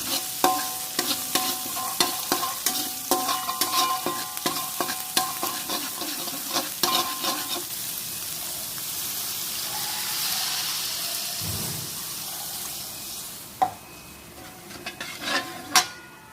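A metal utensil clanking and scraping against a ringing metal pan in quick, uneven strokes while food is stirred. For the next five seconds or so there is a steady sizzle of frying, with a few more clanks near the end.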